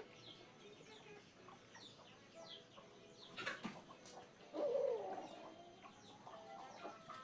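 Birds chirping in short falling notes, with chickens nearby and one louder, lower bird call a little past halfway through.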